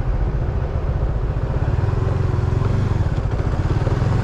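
Motorcycle engine running steadily while riding, a low rapid pulsing throb.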